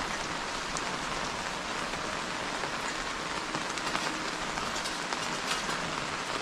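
Steady rain falling, with scattered sharp hits of single drops heard over the even hiss.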